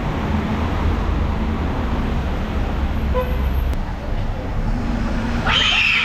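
Street traffic: a motor vehicle's low rumble, fading a little under four seconds in. A short, loud, higher-pitched sound comes near the end.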